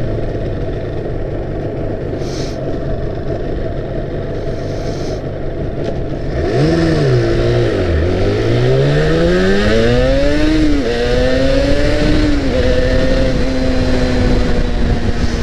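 Yamaha R1-Z's two-stroke parallel-twin engine under way, steady at first. About six seconds in, the revs rise and fall, then climb steadily through two gear changes before holding at a steady cruise. With its rebuilt expansion chamber and fresh silencer packing, the exhaust note runs clean, without the popping of an exhaust leak.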